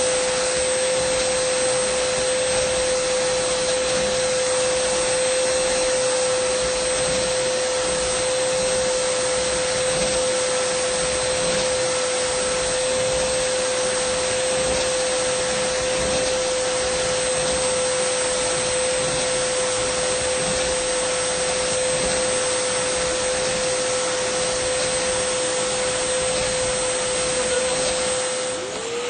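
Dyson vacuum cleaner running steadily: a constant rush of air with a steady motor hum, briefly dipping and recovering near the end.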